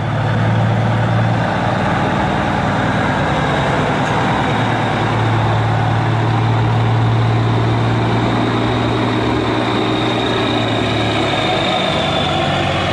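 A heavy truck's engine running steadily with a low hum and a thin high whine over it. The sound swells in at the start and holds even.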